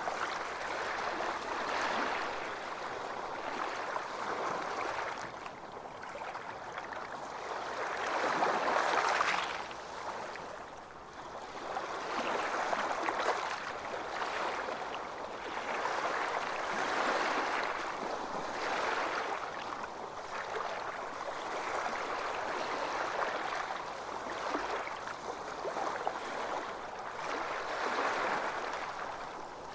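Ocean waves breaking and washing on a beach, swelling and ebbing every few seconds.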